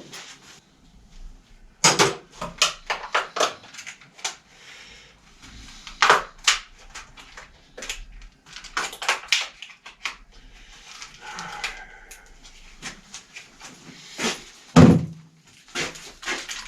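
Irregular clicks, knocks and clatter of parts and tools being handled at a workbench, with one heavier thump about fifteen seconds in.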